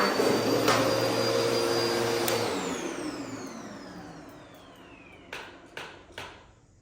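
Vacuum cleaner switched off, its motor spinning down with a falling whine and fading away. Three sharp clicks or knocks follow near the end.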